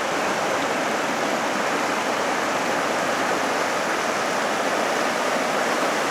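A rain-swollen creek rushing past in a steady, unbroken flow: deep, swift floodwater after heavy rain.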